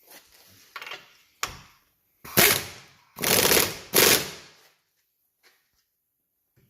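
Impact wrench rattling in three short bursts, typical of undoing or running down shock absorber or strut nuts, after a few light metal clicks.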